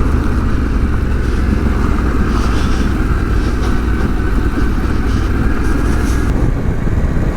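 Yamaha Ténéré 700's 689 cc parallel-twin engine running at a steady pace while the motorcycle is ridden.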